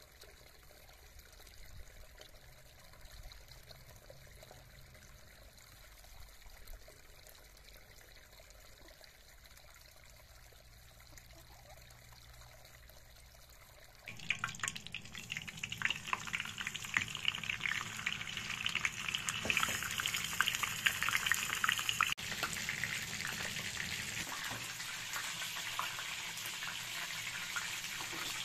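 Faint background hum, then about halfway through a whole chicken starts sizzling and crackling in hot oil in a frying pan on a gas stove. The crackling is loudest for several seconds, then settles into a steadier sizzle.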